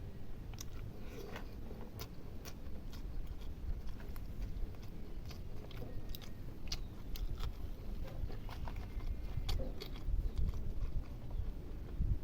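Close-up eating sounds: a person chewing a meal, with many scattered sharp smacks and clicks over a low steady rumble.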